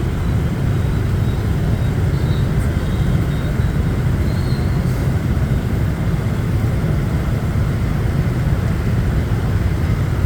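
Steady low rumble of wind on the microphone mixed with the noise of moving through city traffic, with no pauses.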